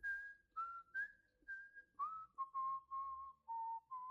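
A person whistling a short tune: a run of short notes stepping up and down, ending on a longer held note.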